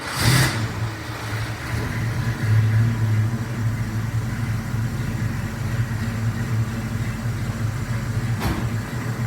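V8 engine fed by a freshly tuned Holley list 3795 four-barrel carburetor, running at a steady idle just after startup, with a brief swell a couple of seconds in and a single click near the end.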